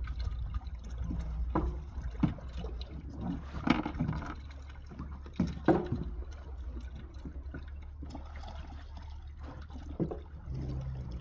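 Water sloshing and splashing, with scattered sharp knocks and clatter and a steady low hum underneath.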